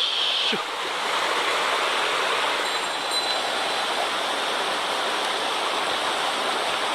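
Steady rush of a mountain stream running high with floodwater after a typhoon.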